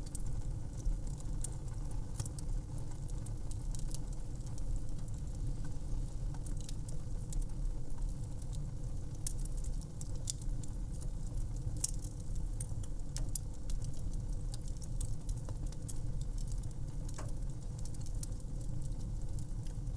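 Wood fire crackling: frequent scattered sharp pops and snaps over a low steady rumble of the flames.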